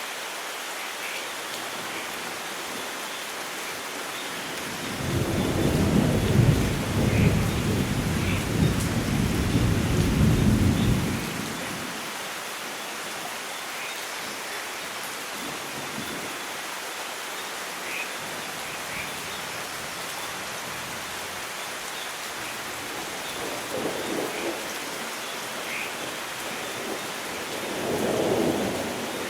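Steady rain falling, with a long low roll of thunder starting about five seconds in and lasting some six seconds. Two fainter rumbles of thunder come near the end.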